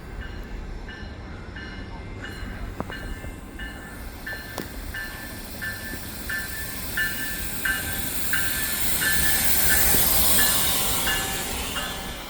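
Commuter train with an ALP45DP locomotive passing close through the station, its locomotive bell ringing in steady repeated dings. The rush of the passing train builds and is loudest about ten seconds in, then eases.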